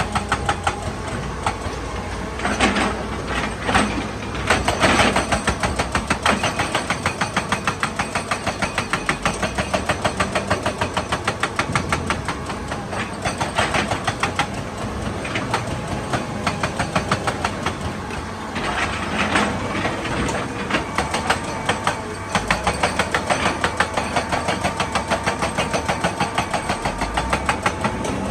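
Excavator's diesel engine running with a fast, regular beat, swelling into louder bursts of noise a few seconds in, again around the middle, and about two-thirds through.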